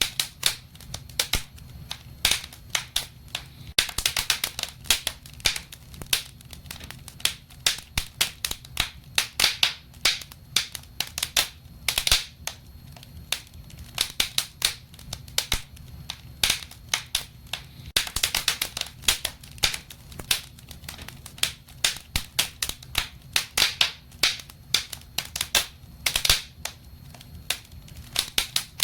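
Wood fire burning in a fireplace, crackling and popping continuously with many sharp irregular snaps over a low steady rumble of the flames.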